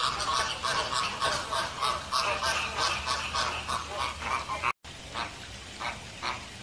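A flock of flamingos calling, a dense chatter of short goose-like honks overlapping one another. After a brief break in the sound about two-thirds of the way in, the honks come fewer and further apart.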